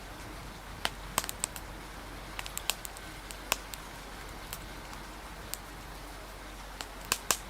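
Steady rain hiss with irregular sharp crackles and pops from a fire, a few coming in quick clusters about a second in and again near the end.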